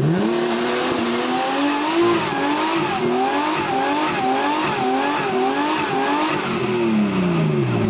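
Nissan Skyline R33 GT-R's twin-turbo RB26 straight-six held at high revs during a burnout, the revs wavering up and down in a regular rhythm, with the spinning rear tyre screeching on the cobbles. Near the end the revs drop away.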